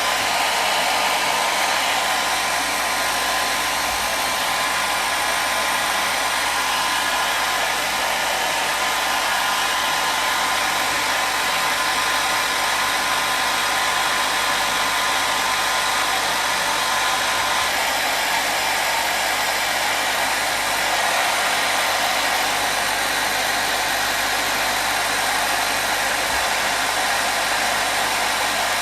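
Hair dryer blowing continuously at a steady pitch, a constant rushing whoosh of fan and airflow with a faint motor whine in it.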